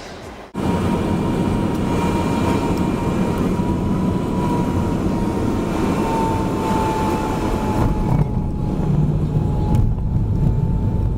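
Jet airliner engines running: a steady rushing roar with a high whine that drifts slightly lower. It starts abruptly about half a second in.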